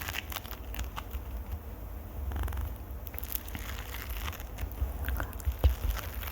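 Close-up ASMR scratching on the microphone: a steady low rubbing rumble with scattered small clicks and crackles, and a few sharper ticks near the end.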